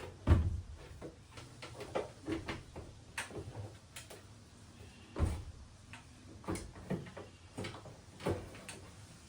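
A machine being hung onto wall-mounted brackets, its body knocking and clunking against the supports at irregular moments, loudest just after the start and about five seconds in. The machine has to be jiggled up into place, so it is bumping while being fitted.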